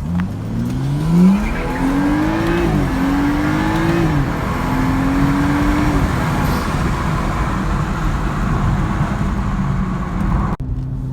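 Turbocharged BMW 435i's N55 inline-six accelerating hard: the engine note climbs, drops back at an upshift, climbs again, drops at a second shift, then holds briefly and falls away as the throttle is lifted about six seconds in, leaving steady road noise. Modified with a JB4 tune, catless downpipes and a blow-off valve.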